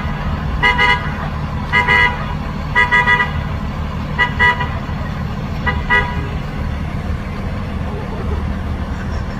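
City bus horn tooted in short taps, singly and in quick pairs, about six times over the first six seconds, to move turkeys out of the road. Under it the bus's engine idles steadily and runs on alone after the toots stop.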